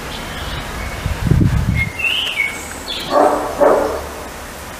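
Birds chirping in short gliding calls, with a low rumble about a second in and two short, louder sounds about three seconds in.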